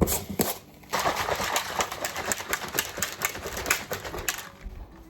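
Quick, irregular clicking and rattling of a plastic water bottle being handled, stopping about four seconds in.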